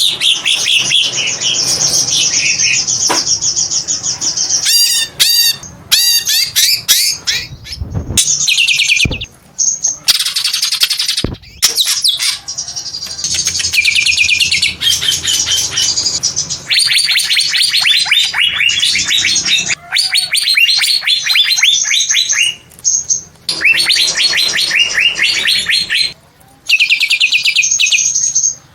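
Cucak ijo (green leafbird) singing in long runs of fast, high chattering and trilled notes, broken by a few short pauses.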